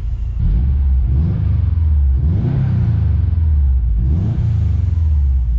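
Turbocharged flat-four of a 2007 Subaru WRX, fitted with unequal-length headers and a cat-back exhaust, pulling away under throttle. It comes in about half a second in, and the revs climb several times, heard from inside the cabin.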